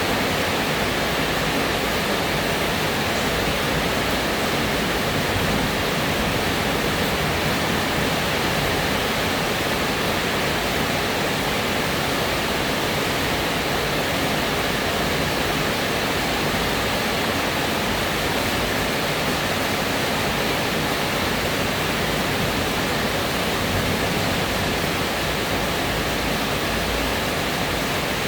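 Steady heavy rain falling, an even, dense hiss.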